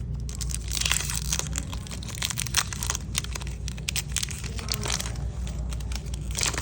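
Foil wrapper of a 1993 Topps Stadium Club baseball card pack being torn open and crinkled by hand, in irregular crackles that bunch up about a second in and again near the end.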